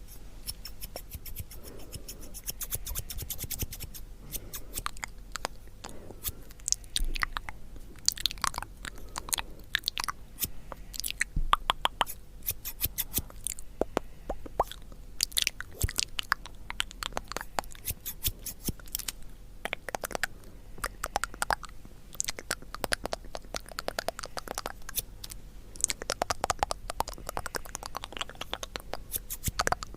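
Close-miked crunchy chewing: a dense, irregular run of sharp crackles and crunches.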